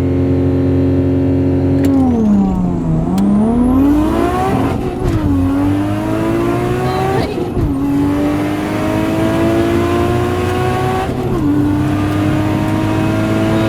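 Nissan 180SX's turbocharged RB25DET straight-six heard from inside the cabin: held at steady revs, the revs dip about two seconds in as the clutch is dumped without launch control, then climb through the gears with three upshifts, each a brief break before the revs rise again.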